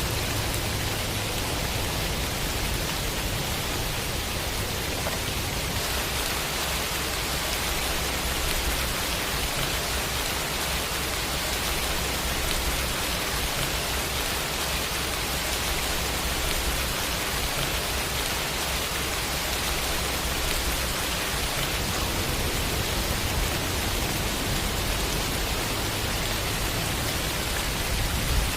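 Rain sound effect: a steady, even hiss of falling rain with a low rumble underneath.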